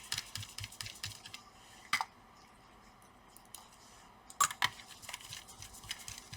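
Small hand screwdriver working the laptop cooler's screws: a run of quick light clicks, a sharper click about two seconds in, a quiet stretch, then two sharp clicks a little after four seconds and a few lighter ones.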